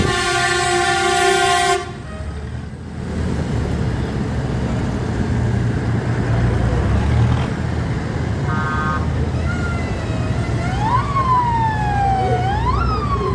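A loud horn blast of about two seconds over the steady low rumble of tractor engines. A short horn toot follows later, and from about ten seconds in a siren wails, sweeping up quickly and falling slowly, over and over.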